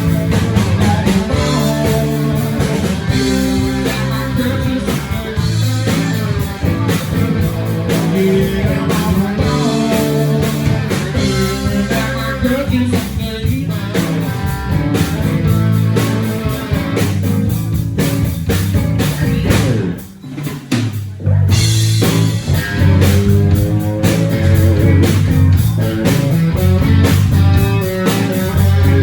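Live blues-rock band playing an instrumental passage on electric guitar, bass and drum kit. The band drops out briefly about twenty seconds in, then comes back in at full volume.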